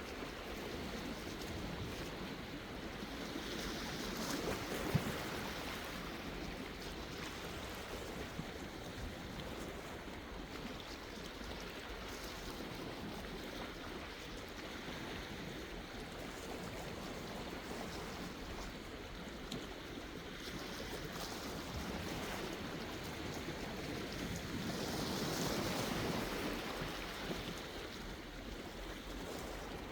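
Sea waves washing in with a continuous rushing sound, swelling louder about four seconds in and again around twenty-five seconds in.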